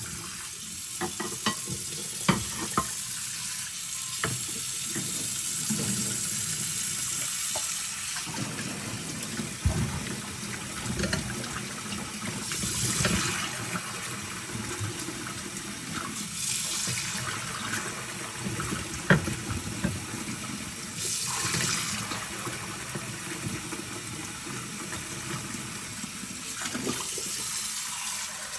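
Kitchen tap running into a sink as plates and bowls are pre-rinsed under it, with a steady hiss of water, splashing swells, and scattered clinks of dishes.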